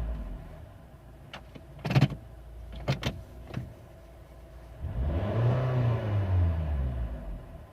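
Honda Fit engine free-revved with the car standing still: a rev dies away, a few sharp clicks sound in the quiet stretch that follows, then another rev rises and falls.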